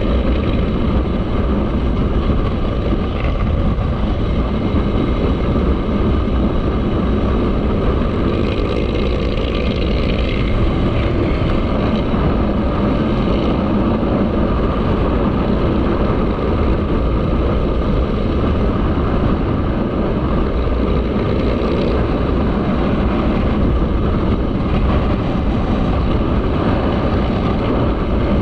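Motorcycle riding at a steady pace, its engine running under a constant rush of wind noise.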